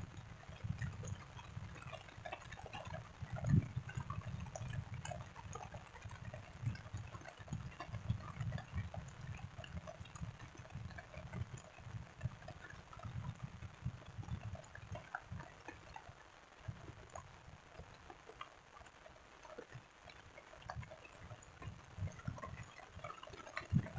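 Rain falling, heard as many small scattered drop ticks, over an uneven low rumble.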